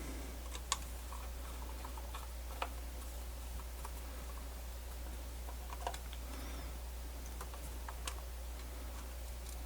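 Faint, scattered small clicks and ticks of tiny screws and a small screwdriver being handled while a portable MiniDisc player's casing is put back together, with four sharper clicks a couple of seconds apart over a low steady hum.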